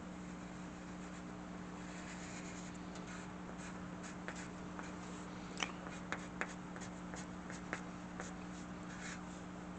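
A drawing tool on paper: small scratchy strokes and light taps, a scatter of short ticks that thickens about halfway through, over a steady low electrical hum.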